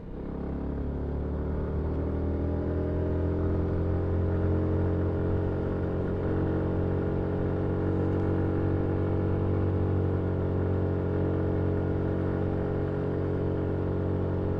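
Yamaha MT-125's single-cylinder four-stroke engine pulling up through the revs for a couple of seconds, then running at a steady cruising speed.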